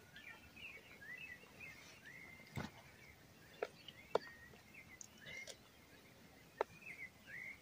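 Birds chirping faintly in short, repeated calls, with a few sharp clicks standing out.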